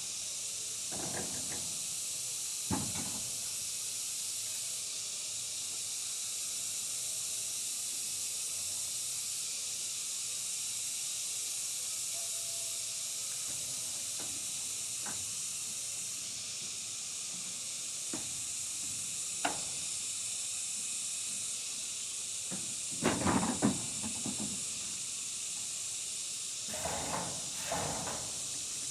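A steady high hiss, with scattered short knocks and handling sounds: a few in the first seconds, single ones now and then, a louder cluster a little past the two-thirds mark and another near the end.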